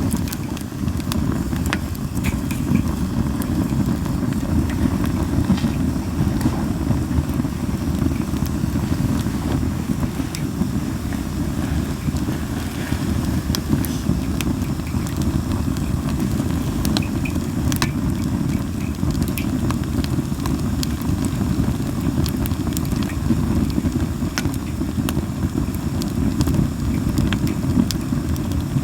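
Linden-wood campfire burning on a fire pit, with scattered sharp pops and crackles over a steady low rumble.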